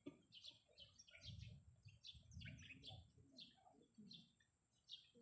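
Faint small-bird chirping: a steady series of short, high chirps, about two or three a second, with a low rumble under it from about a second in.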